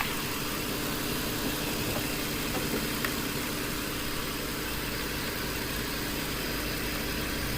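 Nissan 4.0-litre V6 engine idling steadily with the AC switched on.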